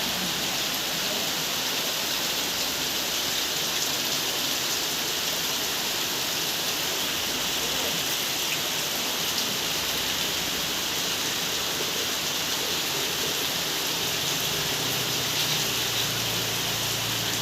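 Rain falling steadily: a continuous, even hiss of drops with no breaks.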